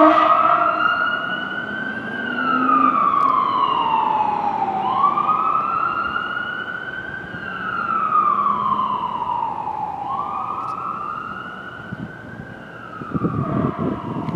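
Fire truck siren wailing, its pitch rising and falling slowly about every five seconds. A low rumble comes in near the end.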